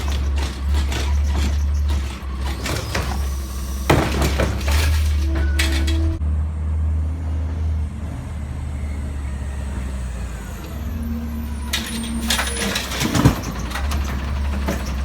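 Recycling collection truck's diesel engine running with a steady low rumble, with scattered clanks and knocks and a sharp bang about 13 seconds in.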